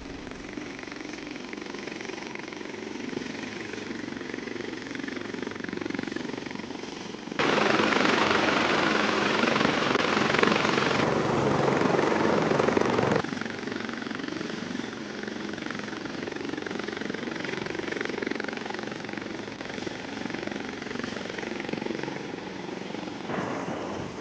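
Aircraft engine noise, a steady rush throughout. It jumps to a much louder roar about seven seconds in and cuts off abruptly about six seconds later.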